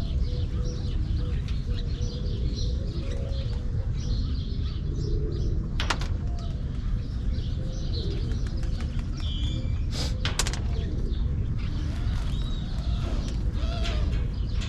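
Small birds chirping and pigeons cooing over a steady low rumble, with a few sharp clicks about six seconds in and around ten seconds in.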